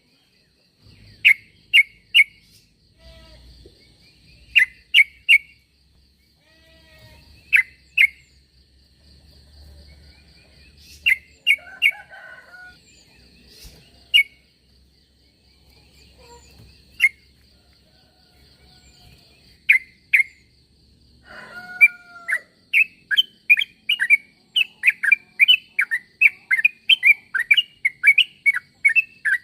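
Yellow-vented bulbul (trucuk) calling: short, sharp chirps in twos and threes, breaking into fast, continuous chattering about two-thirds of the way in.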